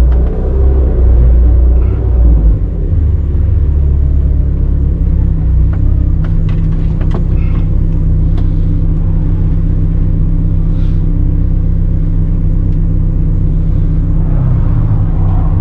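Car engine running steadily at low revs, a loud low rumble, with its pitch shifting a little in the first couple of seconds.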